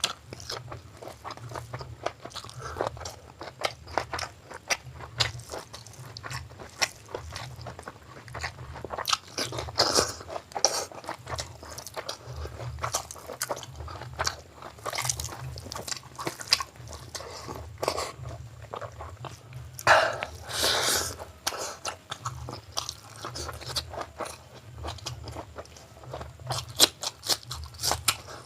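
A person chewing and biting mouthfuls of chicken gizzard curry and biryani close to the microphone: continuous wet crunching and mouth clicks at an uneven pace. A louder noisy burst lasting about a second comes about two-thirds of the way through.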